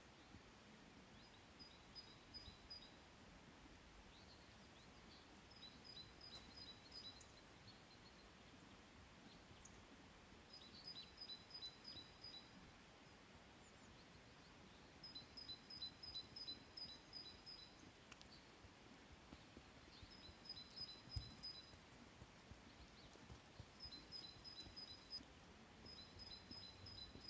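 Faint songbird singing: phrases of quickly repeated high two-note chirps, returning every few seconds over a quiet outdoor background. A single dull thump about three-quarters of the way through.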